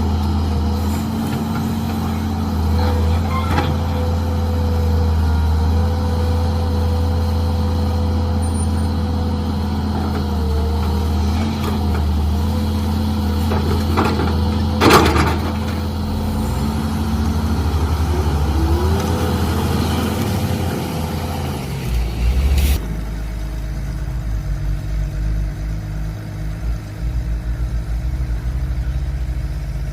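Mini excavator's engine running steadily under load while it digs, with a sharp clank about halfway and another near two thirds, after which the engine settles to a lower, steadier note.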